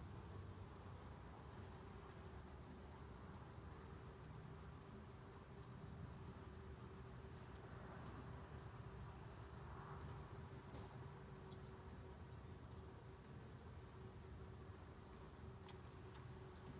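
Faint, short, high-pitched chirps repeat at irregular intervals, about one to two a second, over a low steady hum.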